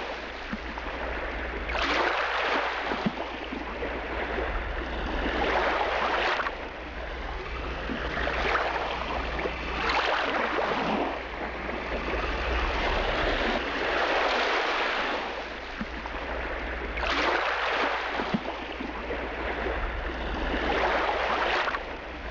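Sea surf washing onto the shore, the wash swelling and fading every few seconds over a steady low rumble.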